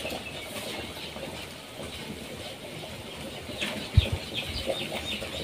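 Outdoor ambience with birds calling: a quick run of short, falling chirps starts about three and a half seconds in. A single dull thump comes about four seconds in.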